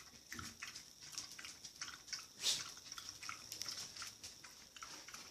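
A dog lapping water from a bowl: quick, repeated small splashes and clicks, about three or four laps a second.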